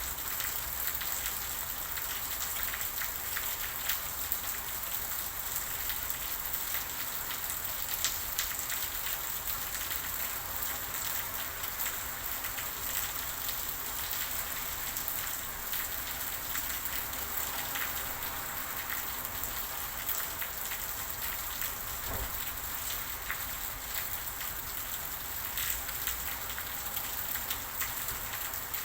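Steady rainfall: a continuous hiss of falling rain, dotted with a dense scatter of individual drops ticking.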